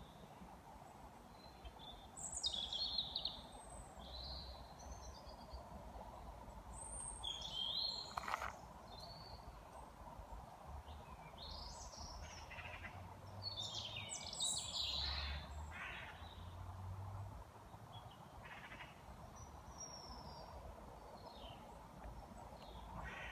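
Wild songbirds chirping and singing in short, scattered phrases over a faint low rumble.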